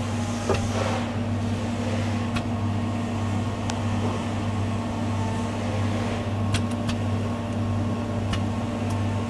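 Automatic plasma welding equipment running: a steady electrical hum over a hiss, with a few faint clicks.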